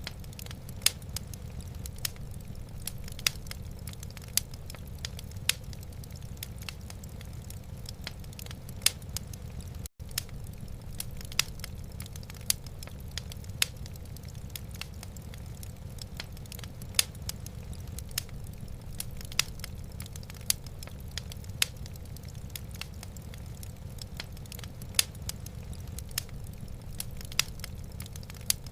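Wood fire crackling in a fireplace: irregular sharp pops and snaps, one or two a second, over a steady low rumble. The sound cuts out for an instant about ten seconds in.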